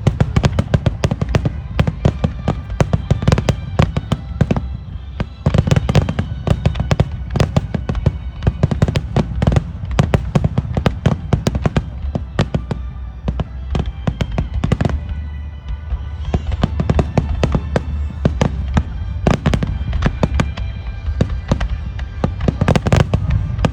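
Fireworks display with shells bursting in rapid, overlapping succession, many bangs a second over a constant rumble, easing a little about two-thirds of the way through. Music plays along with the bursts.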